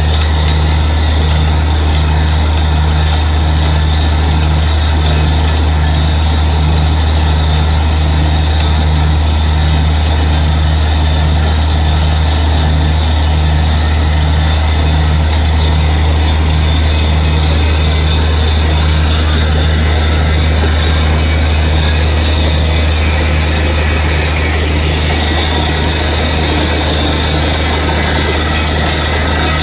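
Borewell drilling rig running under load: a loud, steady heavy-engine and compressor drone with a regular pulsing beat and a wide hiss of air and drilling noise.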